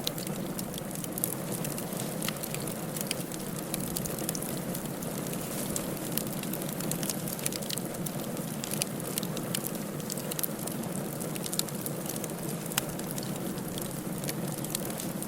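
Firewood burning in a fireplace: a steady low rushing hiss of the fire with frequent small, sharp crackles and pops scattered throughout.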